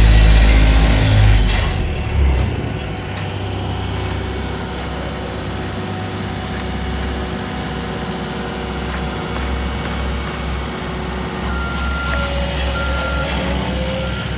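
Heavy road-construction machinery running steadily, with a loud engine dying down over the first two seconds. Near the end a reversing alarm beeps three times, about once a second.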